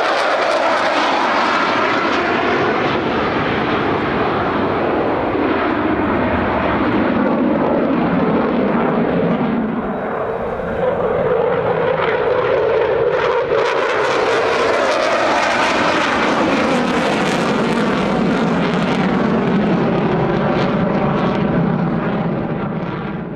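Jet engine noise of a twin-engine F-15J fighter in flight, loud and continuous. The tone shifts as it flies, and it turns brighter and hissier about 13 seconds in.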